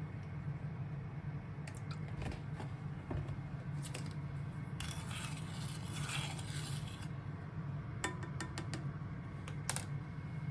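Small objects being handled: scattered light clicks and taps, and a noisy brushing stretch lasting about two seconds midway, over a steady low hum.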